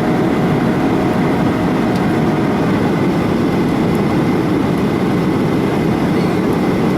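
Airliner cabin noise in flight: a steady, even rushing drone of engines and airflow, strongest low in pitch, unchanging throughout.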